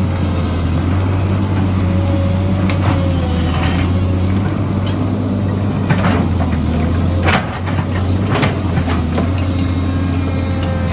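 A heavy construction machine's diesel engine running steadily, with a few sharp knocks and clanks over it, about five in all, spread through the middle of the clip.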